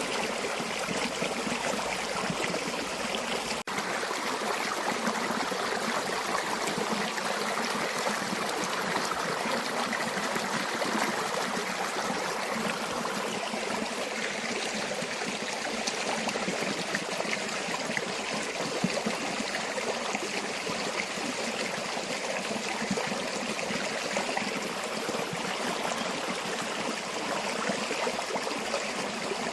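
River water flowing in a steady, even rush with trickling, with a momentary dropout just under four seconds in.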